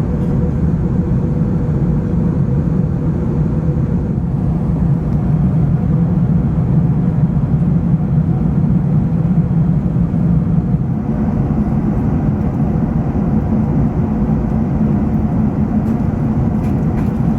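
Steady cabin noise of an Airbus A380 in flight: a low, even rush of air and engine noise with a faint steady hum.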